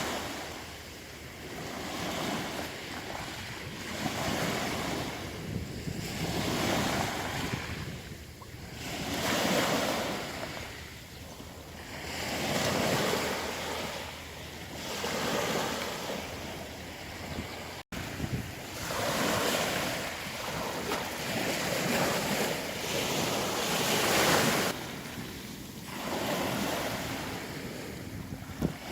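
Sea surf breaking and washing over a pebble beach, the waves swelling and falling back every two to three seconds, with a brief break in the sound about two-thirds through.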